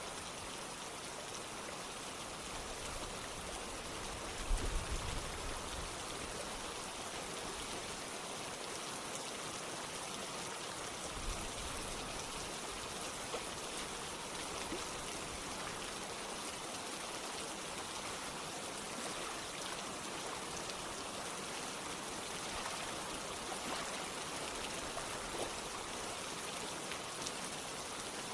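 Steady rain with running water: an even hiss with scattered ticks of drops. A brief low thump about four and a half seconds in, and a weaker one near eleven seconds.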